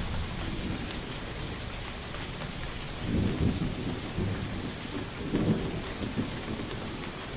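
Steady heavy rain, with low thunder rumbling twice, about three and about five and a half seconds in.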